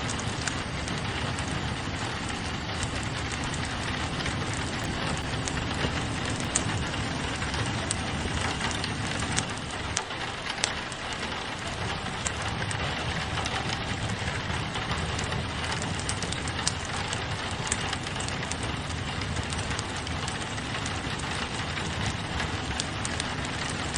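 Steady rain pattering on a window glass, mixed with a wood fire crackling, whose scattered sharp pops stand out here and there.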